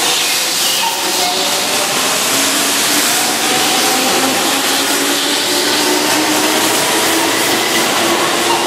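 Keihan 2600-series electric commuter train pulling out of a station, its motors and wheels running with a loud steady noise and a few faint tones that rise slowly as it gathers speed.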